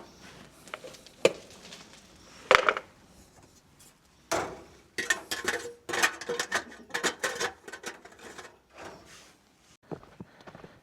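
Objects being handled by hand: two sharp knocks, then a busy run of clattering and rustling about four seconds in that tails off after seven or eight seconds.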